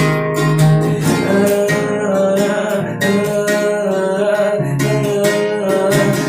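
Acoustic guitar strummed in a sertanejo song, with a voice holding a wavering wordless note over it.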